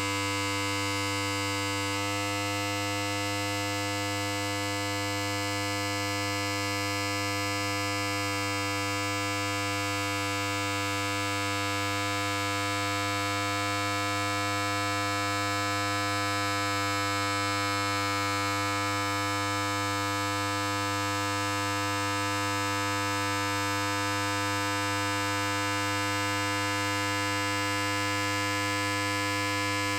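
Electric hair clipper running continuously with a steady buzz.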